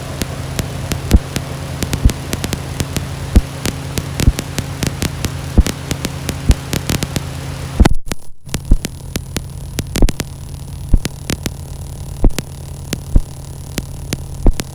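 Ambient noise music: a steady low hum with irregular sharp clicks and crackles throughout. The sound cuts out briefly about eight seconds in, returns with less hiss, and stops suddenly at the end.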